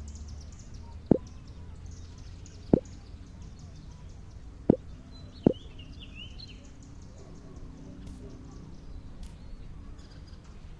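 Four short, sharp knocks at uneven intervals over a low background rumble, with faint bird chirps in the middle.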